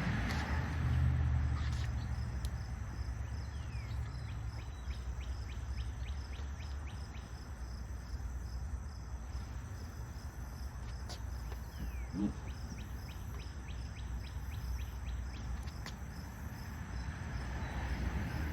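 Insects chirping in rapid, even ticks over a steady low rumble; the rumble is heavier for the first few seconds.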